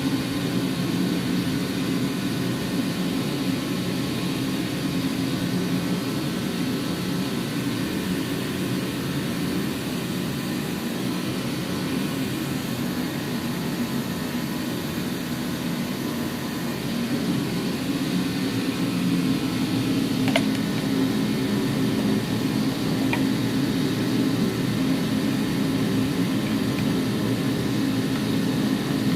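A steady low mechanical whir or drone that holds unchanged throughout, with a couple of faint light clicks about two-thirds of the way through.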